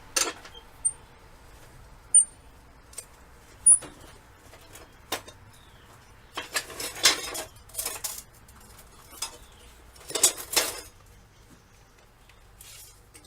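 Steel saw-blade stock and other metal being handled. There are sharp clinks with brief high rings over the first few seconds, then longer scraping, sliding bursts about halfway through and again near the end.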